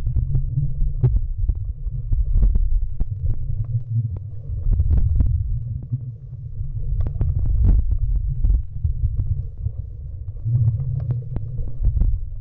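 Underwater camera audio while snorkeling: a muffled low rumble of moving water that swells and fades every second or two, with scattered sharp clicks.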